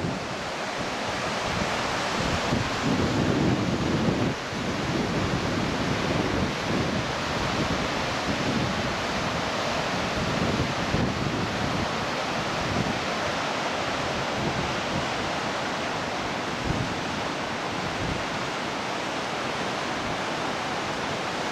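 Waterfall: a steady rush of falling water. Wind buffets the microphone in low gusts, most strongly in the first few seconds.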